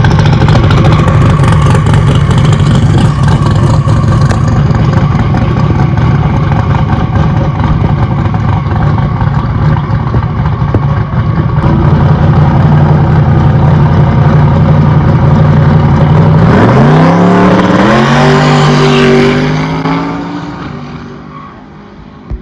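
Turbocharged drag race car's engine running loud and steady, then about three quarters of the way through rising sharply in pitch as the car accelerates away down the strip, the sound fading out near the end.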